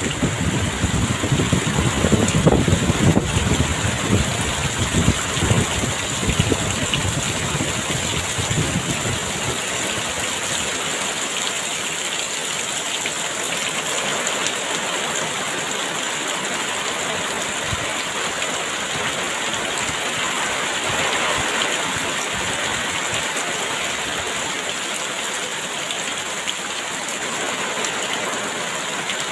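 Very heavy rain falling steadily, with gusts of strong wind rumbling low during the first several seconds before easing off.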